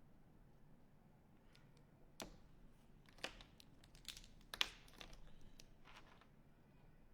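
A few sharp clicks and a short rustle from art supplies being handled at a work table, the loudest click about halfway through, over near-silent room tone.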